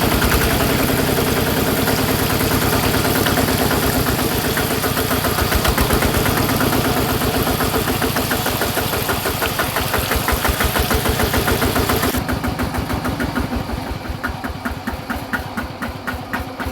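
Miniature toy diesel engine running with a fast, even firing beat, then slowing and thinning out over the last few seconds as it winds down.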